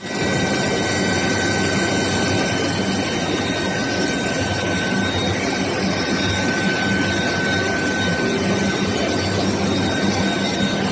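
Long-bar induction quenching and tempering line running: a steady machine noise with a high, steady whine and a low hum underneath, unchanging throughout.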